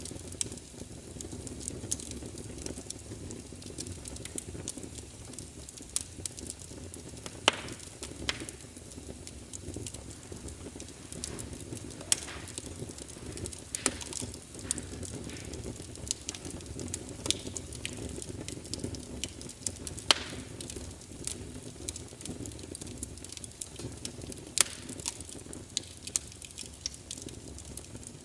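Fire burning in a fireplace: a steady low rumble and hiss with irregular sharp crackles and pops, a few of them louder than the rest.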